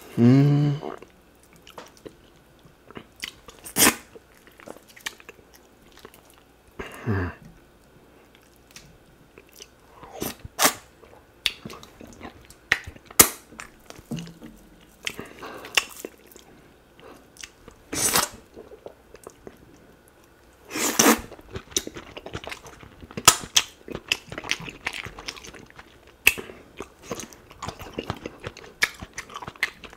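Close-miked eating sounds of a man eating slimy, drawing ogbono soup with fufu and duck meat by hand: wet chewing with many sharp smacks and clicks, and a couple of short hums.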